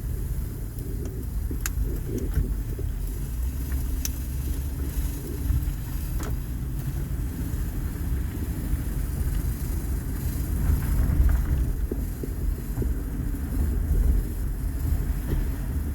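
Honda Odyssey minivan driving, heard from inside the cabin: a steady low road and engine rumble with a few faint light clicks.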